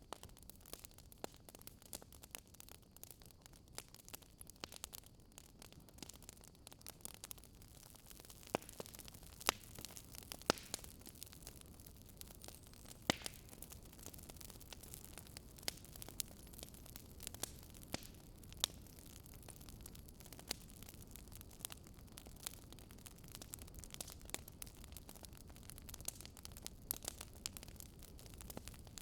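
Wood fire in a fireplace crackling, with irregular sharp pops over a low steady hiss.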